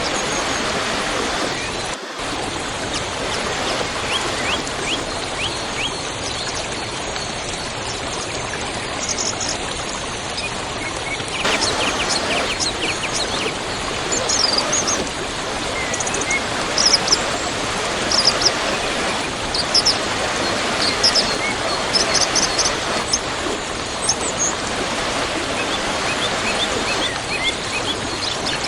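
Waterfall rushing steadily, with small birds chirping over it, their short calls coming more often from about ten seconds in.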